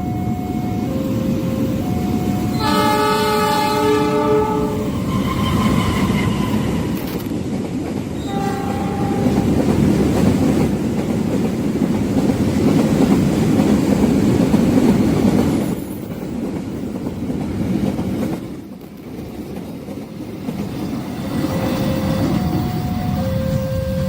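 Long train passing a level crossing: its horn sounds about three seconds in for around two seconds and again briefly near nine seconds, over the loud rumble and wheel clatter of the passing cars, which fades out around sixteen to nineteen seconds. The crossing's alternating two-note warning signal sounds at the start and again near the end.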